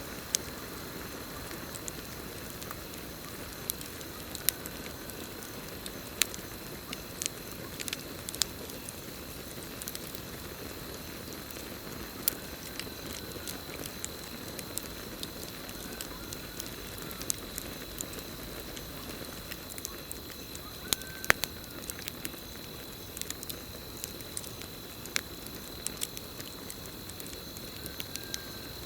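Campfire burning with a soft steady hiss and irregular sharp crackles and pops, the loudest about two-thirds of the way through. Crickets trill steadily in the background.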